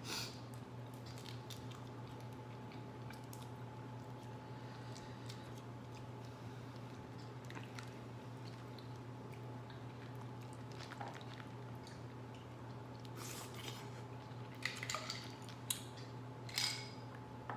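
Close-up eating sounds from a seafood boil: wet chewing and squishing of shellfish, with scattered soft clicks and a few louder sharp cracks and smacks near the end. A steady low hum runs underneath.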